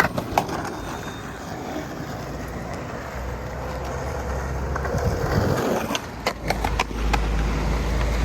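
Skateboard wheels rolling over wet pavement: a steady rolling rumble that builds toward the end, with a few sharp clacks near the start and again about six seconds in.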